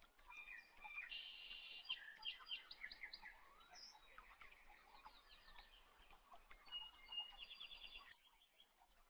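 Faint bird chirps and trills, many short rapid calls that die away near the end.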